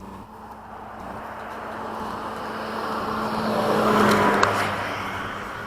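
Something passing close by: a rushing noise that swells to a peak about four seconds in and then fades away, with a steady low hum underneath.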